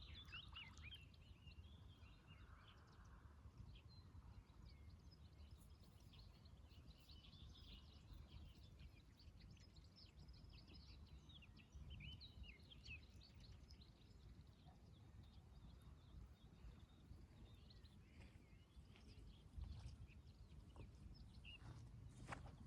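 Faint morning ambience: small birds chirping and twittering, busiest in the first half, over a steady low rumble, with a couple of sharp clicks near the end.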